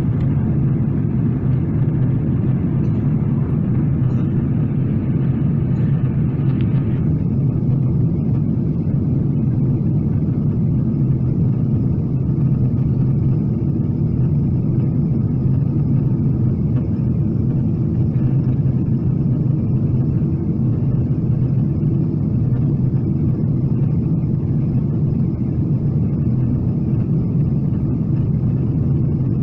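Steady low rumble of airflow and engines heard inside the cabin of a Boeing 777-300ER during descent.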